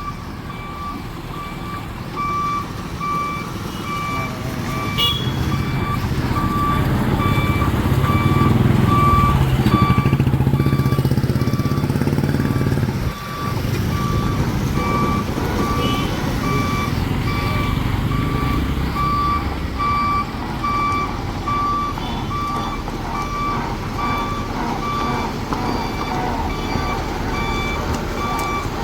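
A truck's reversing alarm beeping in an even, unbroken series over the rumble of its diesel engine. The engine swells a little in the middle and drops for a moment about halfway through.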